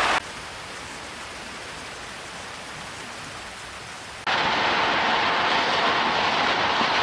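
Steady rush of water, quieter at first; about four seconds in it cuts abruptly to a louder, fuller rush.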